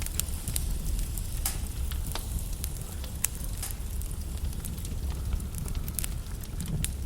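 Log fire in a fireplace crackling: irregular sharp pops and snaps over a steady low rumble of burning wood, with one louder pop a little past the middle.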